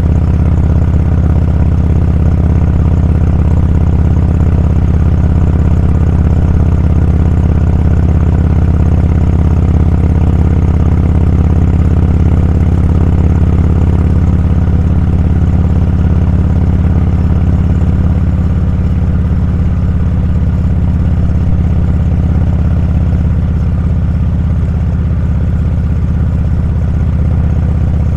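Motorcycle engine running steadily under way, a low, even engine note.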